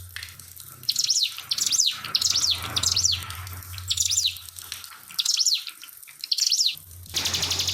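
Ciblek, a small prinia, singing in about seven short bursts of quick, falling high notes, over a steady low hum and trickling water. Near the end a louder, fast-pulsing hiss cuts in.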